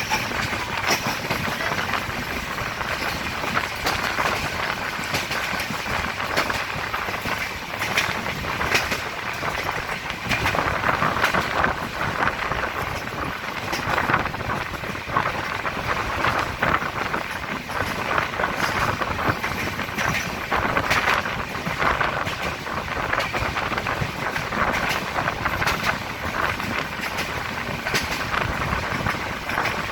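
Train running on the track: a steady rumbling rush with many irregular clicks and knocks from the wheels on the rails.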